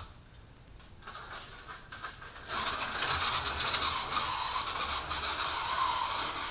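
HO-scale slot car's small electric motor whirring steadily on the track, starting up about two and a half seconds in. It is the modified police-van car that has been sputtering and dying, and its running is called not sounding good.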